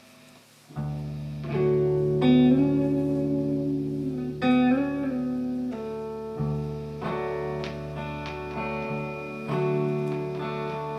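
Band playing an instrumental passage: held low bass notes under a guitar line with bent, sliding notes, coming in after a near-quiet moment about a second in.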